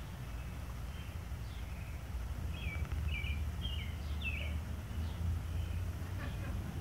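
Small birds chirping, with a quick run of short chirps in the middle, over a steady low outdoor rumble.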